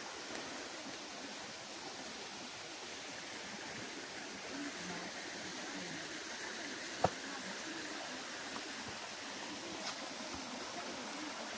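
Steady rush of water from a mountain stream and its waterfalls, with a single sharp click about seven seconds in.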